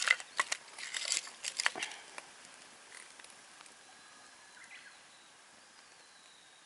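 Sharp snaps and knocks of sticks being fed into a small wood campfire, dense for about two seconds, then only a faint steady background.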